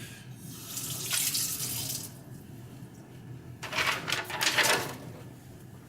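Water running from a tap in two short spells as a knife blade is rinsed clean after sharpening.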